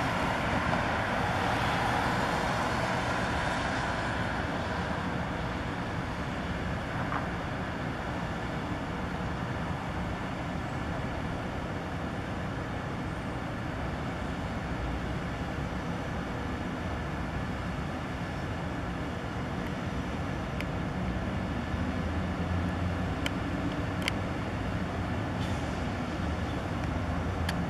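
Steady noise of road traffic, a little louder in the first few seconds and then easing, with a few faint clicks near the end.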